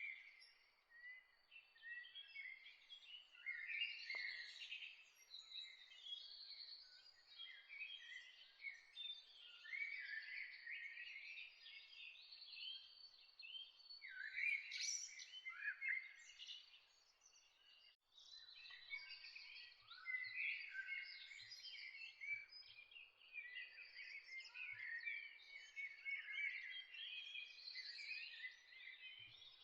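Many small birds chirping and trilling together in a dawn chorus, with a brief lull about two-thirds of the way through.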